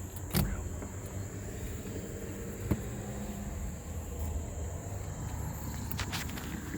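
Steady high-pitched chirring of crickets, with a few light clicks or knocks: one about half a second in, one near the middle and a couple near the end.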